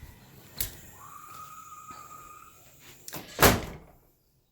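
A door being shut: a light click, then a solid thump as it closes about three and a half seconds in.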